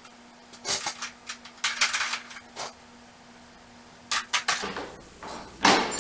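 Metal hand tools (wrenches, pliers) clinking and clattering against each other as they are picked up and set down, in four clusters of sharp clinks, the last the loudest.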